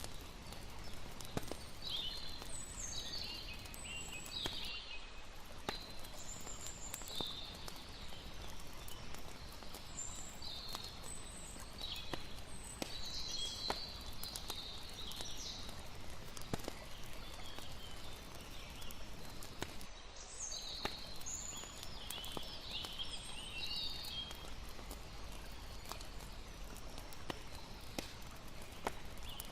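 Layered night ambience: a campfire crackling with scattered sharp pops, high chirping calls of crickets coming and going, over a steady low wash of lapping water.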